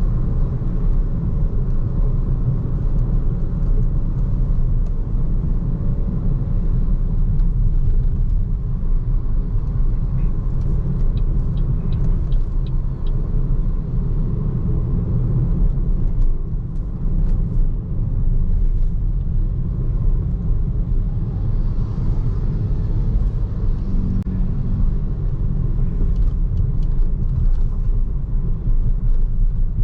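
Steady low rumble of road and tyre noise from a BYD Seagull electric car driving on city roads, with no engine note, and a few faint ticks now and then.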